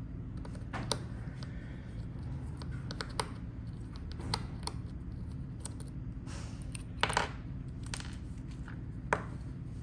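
Irregular sharp clicks and taps of a hand-held fidget toy's hard parts being handled and pried at, the loudest cluster about seven seconds in, over a steady low hum.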